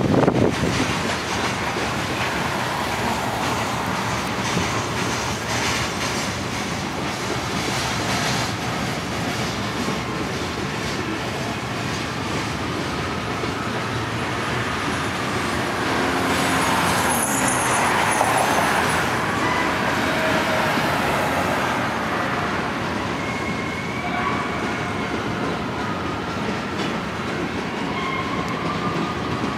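Loaded hopper cars of a slow freight train rolling past, a steady rumble of wheels on rail. Thin high wheel squeals come and go in the second half.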